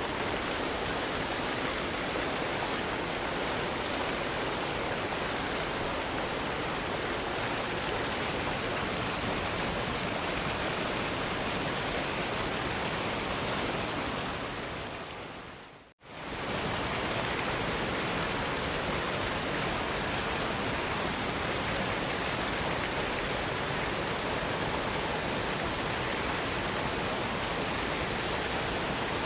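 Steady rushing of a waterfall, an even dense hiss. It fades down to silence about sixteen seconds in and swells straight back.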